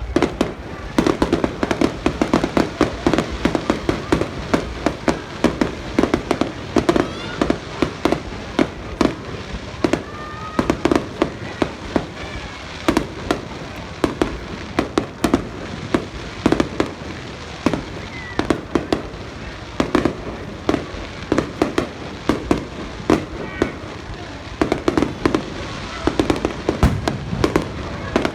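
Fireworks display: a dense, continuous barrage of bangs and pops, several a second, with no break.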